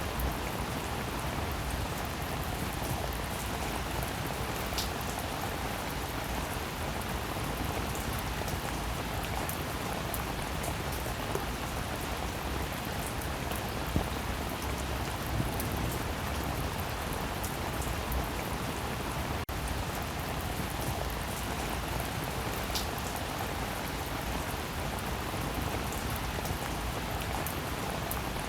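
Rain falling steadily, with many individual drops ticking sharply through the constant hiss.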